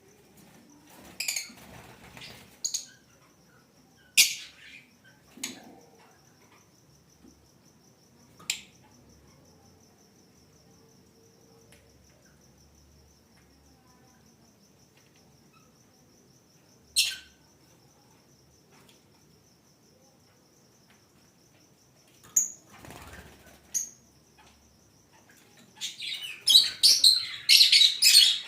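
Lovebirds in a breeding colony giving short, shrill chirps every few seconds, then a dense flurry of chattering calls near the end. A steady, fast-pulsing high trill runs underneath.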